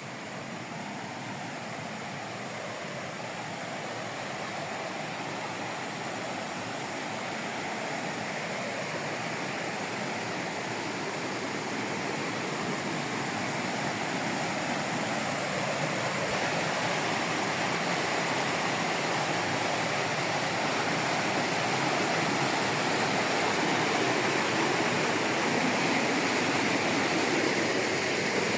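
Mountain waterfall rushing steadily, growing gradually louder.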